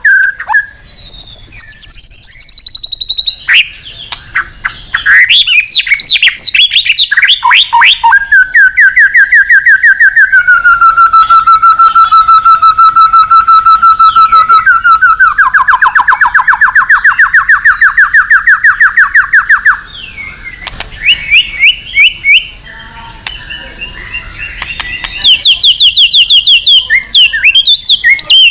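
White-rumped shama singing loudly: a varied song of whistled slurs and long runs of very fast repeated notes that make a rattling trill, with a brief quieter stretch a little past the middle before it picks up again.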